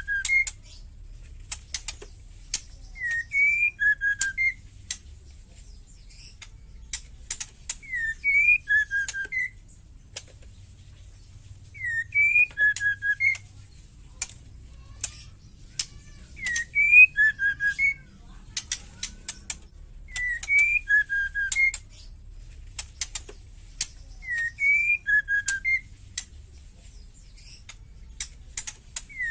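Female white-rumped shama calling: a short phrase of a few whistled notes repeated about every four seconds, with bursts of harsh, clicking rattles (ketrekan) between the phrases.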